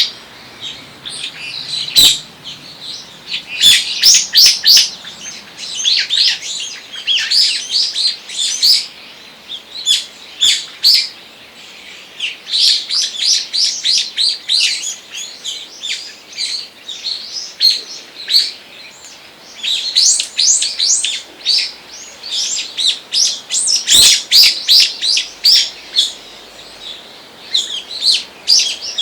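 Small forest birds chirping, short high calls in quick clusters with brief lulls between, several birds overlapping. A sharp click sounds twice, about two seconds in and again late on.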